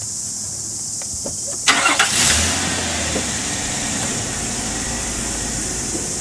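A car's engine is started about two seconds in, with a short loud crank before it catches, then runs steadily as the car moves off near the end.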